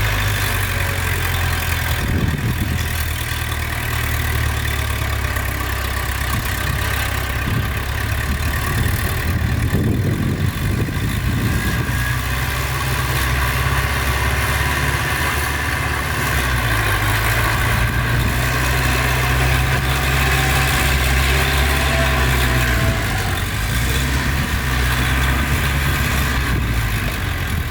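Heavy diesel engine of earthmoving machinery running, its low note shifting in pitch now and then as the throttle changes.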